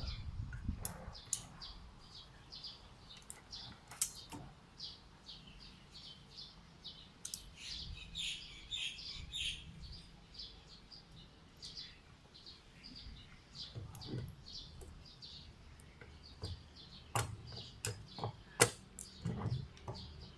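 Small birds chirping over and over in the background, with a few sharp clicks, the loudest shortly before the end, from small parts or tools being handled.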